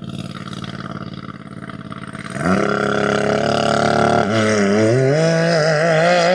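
Off-road vehicle engine running low, then about two and a half seconds in it jumps to a loud, steady high-revving note. From about four seconds in, the revs waver up and down.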